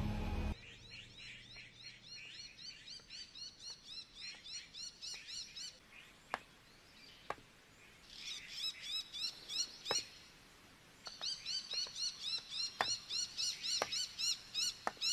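Ambient chirping of a bird: short high calls repeated in runs of about three to four a second, with a couple of pauses, and a few faint sharp clicks.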